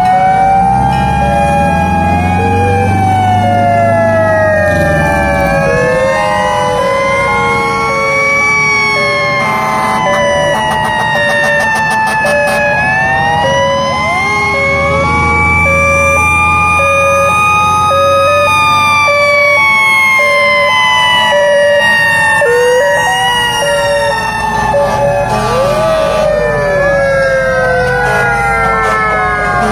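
Several fire truck sirens sounding at once: slow rising and falling wails overlap, with a two-tone hi-lo siren alternating underneath. A low truck engine rumble runs beneath the sirens.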